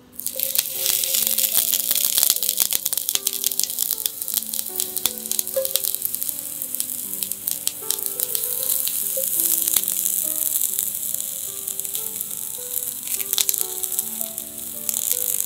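Chunks of Japanese long onion sizzling and crackling in hot beef tallow in a pan as they are laid in with chopsticks to sear. The sizzle starts suddenly and eases a little near the end.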